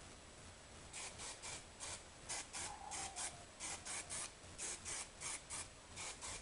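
Short spritzes of hairspray onto hair, about seventeen quick hissy bursts that often come in pairs.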